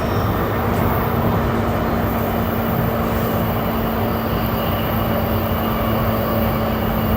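Running noise inside a JR East E235-1000 series electric train car: a steady rumble of wheels on rail with a steady low hum running through it.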